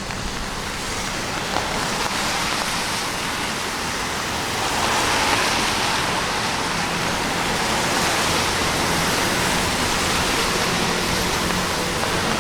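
Steady rain falling on a city street, an even hiss that grows louder about five seconds in.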